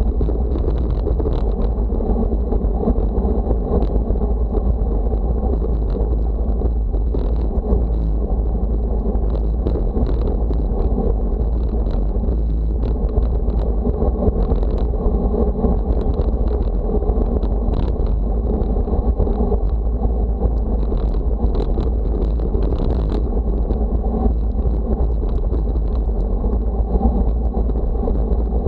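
Steady wind noise buffeting the microphone, a heavy low rumble with a thin, steady high tone above it and scattered small clicks.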